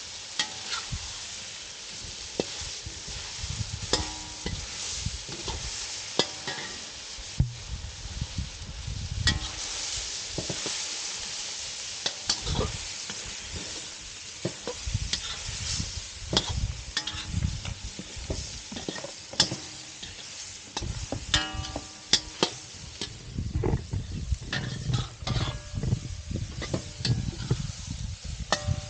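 Food sizzling as it fries in a pan over a fire and is stirred: a steady hiss with frequent scrapes, knocks and short ringing clinks of the utensil against the pan.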